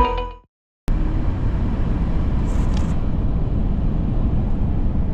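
Background music fades out, and after a brief silence a steady low road noise of a moving car is heard from inside the cabin.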